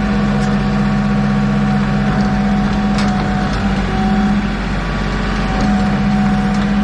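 Forklift engine running steadily with a continuous hum and a fainter whine, between spells of its reversing beeper.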